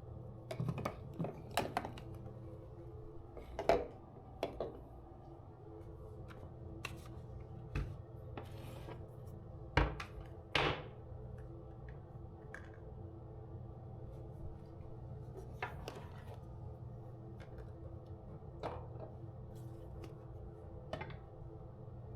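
Irregular light clicks and knocks of objects being handled and set down, a cluster of them in the first two seconds and the loudest a little over ten seconds in, over a steady low hum.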